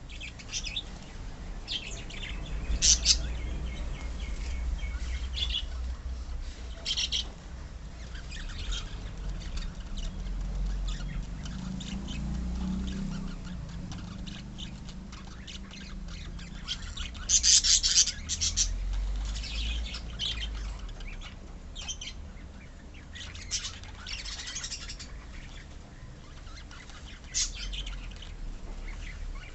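A colony of lovebirds chirping and squawking in short sharp calls scattered throughout, with the loudest squawks about three seconds in and again a little past halfway, over a low steady rumble.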